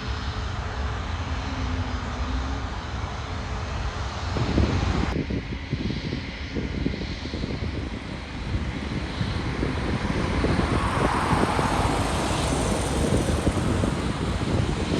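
Jet airliner engine noise, with heavy wind rumble on the microphone starting about four seconds in.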